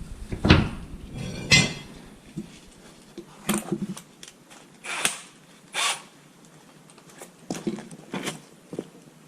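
Metal parts and hand tools knocking, clinking and scraping during driveshaft work, with a short run of quick clicks about one and a half seconds in.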